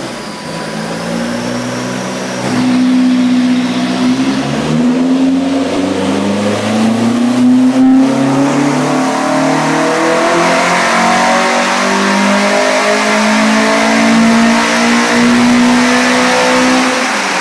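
Peugeot 205 GTi race car's Longman-built Group A 1.9-litre 8-valve four-cylinder engine running hard under load. The engine note climbs in pitch several times, with short breaks between, and falls away near the end.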